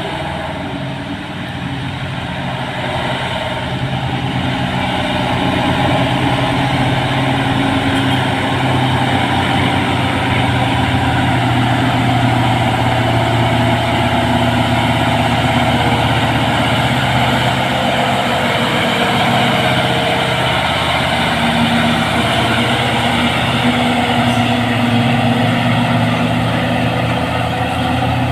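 Heavy truck's diesel engine running steadily at low revs under load, grows a little louder about two seconds in.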